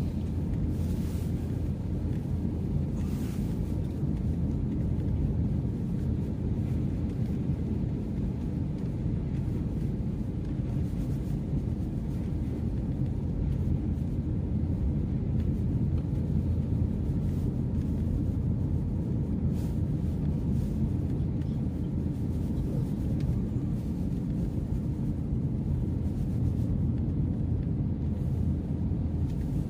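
Steady low outdoor rumble with no distinct events: background roar from the open seafront and nearby road traffic.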